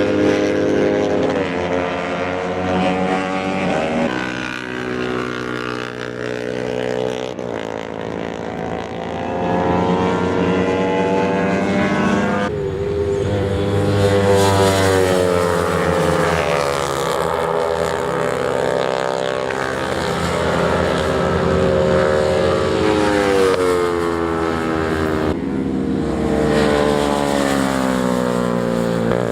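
Racing motorcycle engines at high revs, several at once, their pitch climbing and falling over and over as the bikes shift gears and pass.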